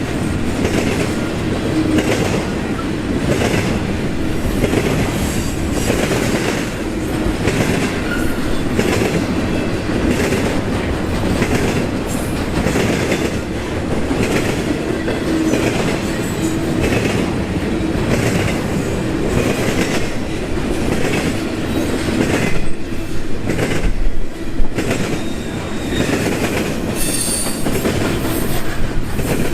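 Union Pacific intermodal freight train's cars rolling past, wheels clacking in a steady repeating rhythm, with a couple of louder bangs and a high metallic squeal near the end.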